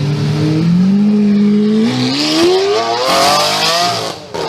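Lamborghini supercar engine revving: its note rises gently, then climbs steeply for about two seconds and cuts off abruptly near the end as the throttle is released.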